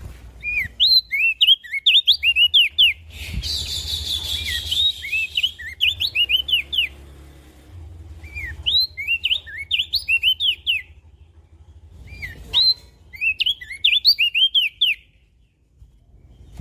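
Crested white-eye (opior jambul) singing in four rapid phrases of short, up-and-down whistled chirps, with pauses between them. A brief hissing rasp sounds a few seconds in.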